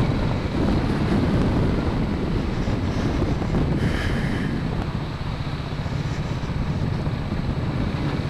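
Royal Enfield single-cylinder motorcycle engine running steadily while riding, mixed with wind buffeting the helmet-mounted microphone.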